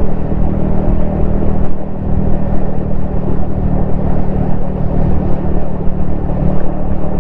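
Yamaha XSR155's single-cylinder engine running steadily while cruising, with a brief dip in level about two seconds in, heard from a helmet-mounted camera with wind rumble.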